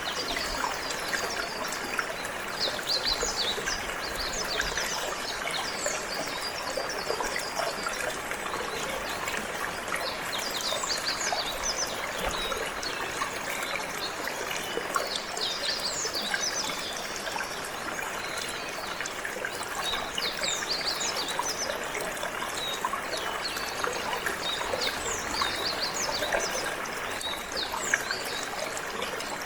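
Water trickling and flowing steadily, with canaries singing in quick repeated chirps and trills over it.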